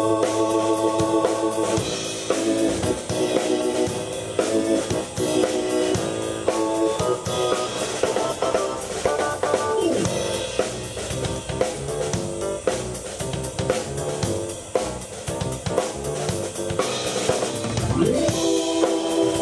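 Live rock jam for keyboard and drum kit: the keyboard plays held chords and runs, with a couple of sweeping pitch glides, over a drum kit beat of snare and bass drum.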